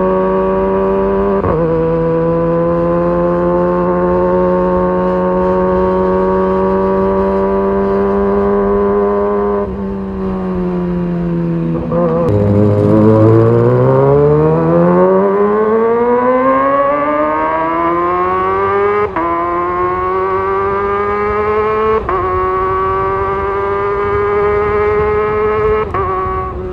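Kawasaki ZX-25R's 250 cc inline-four engine running at high revs under load. Its pitch climbs in each gear and drops sharply with each quickshifter upshift, about a second and a half in and again several times near the end. Midway the revs fall off, then rise steadily through a long hard pull.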